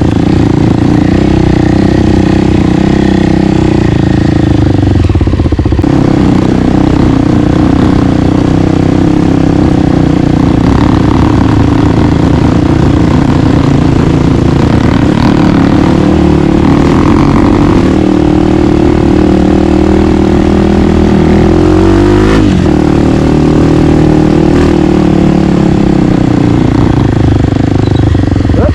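Single-cylinder four-stroke dirt bike engine running while riding, its pitch rising and falling with the throttle.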